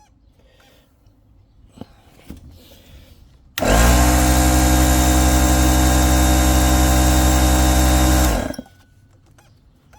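Electric air compressor motor cutting in suddenly about three and a half seconds in. It runs steadily for about five seconds to keep the packer's air pressure up, then cuts out and spins down. A few faint knocks come before it.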